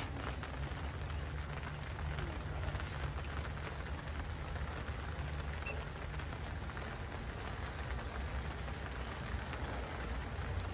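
Steady low hum of a barrel smoker's blower fan running, over a faint, even crackling hiss.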